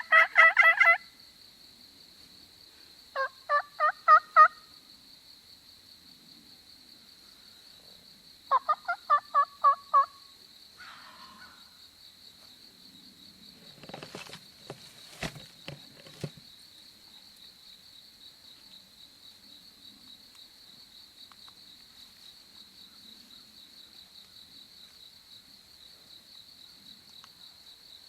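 Wild turkey calls: three short runs of quick, evenly spaced notes in the first ten seconds. A steady high drone of insects runs beneath, and a few sharp clicks come about halfway through.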